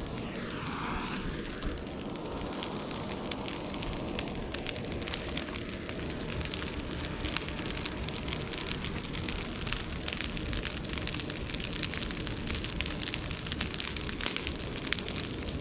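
Bonfire of dried bamboo and cut brush burning, a steady rush of flames with many sharp crackles and pops that come thicker from about halfway on. A brief wavering whistle is heard in the first second or so.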